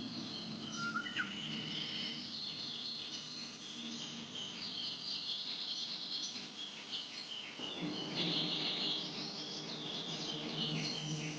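Nature ambience of many small birds chirping and trilling together with insects, over a low steady hum that grows stronger about two-thirds of the way through.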